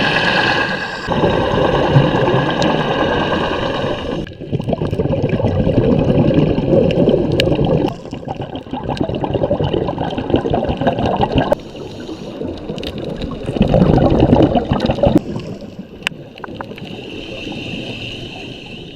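Underwater sound picked up through a camera housing: gurgling, rushing water noise of scuba bubbles and water movement. It changes abruptly several times.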